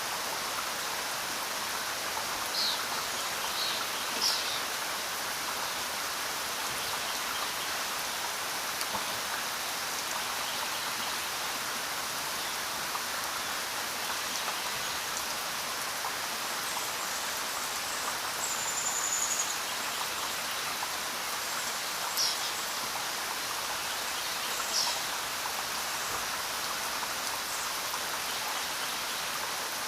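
Steady rain falling, an even hiss of drops without a break. A few short high-pitched chirps stand out, one held briefly a little past the middle.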